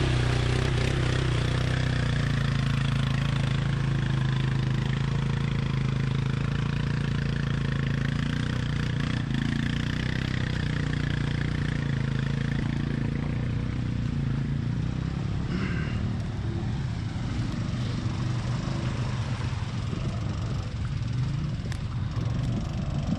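ATV engine running at a steady pitch, a little quieter in the second half.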